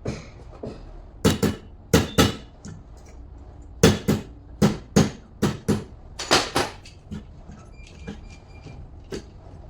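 Hammer blows: about a dozen sharp knocks, many in quick pairs, with a pause after the first few.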